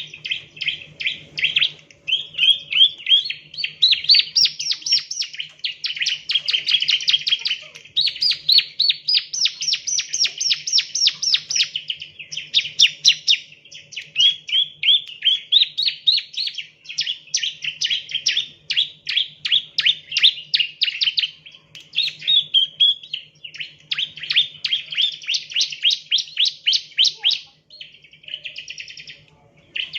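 Bar-winged prinia (ciblek) singing: fast runs of sharp, high chirps repeated in phrases of a few seconds with only brief gaps, some phrases rising in pitch.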